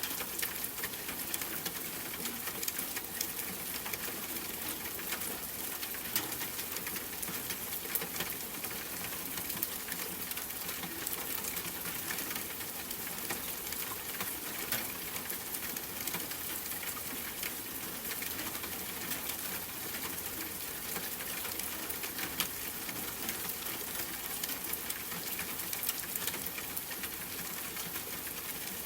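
Steady rain falling, a continuous hiss with many small drops ticking and pattering close by.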